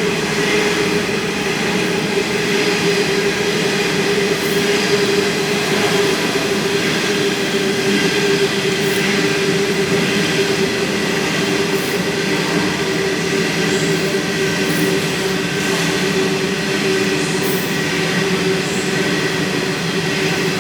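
Electric suburban passenger train running close by at the station: a steady hum with a steady mid-pitched whine, and brief faint high squeaks now and then.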